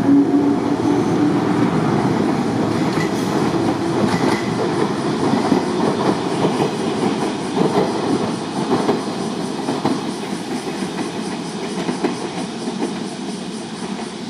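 JR West 103 series electric train running away along the track, its wheels clacking irregularly over the rail joints. A low hum dies away in the first two seconds, and the running noise fades steadily as the train recedes.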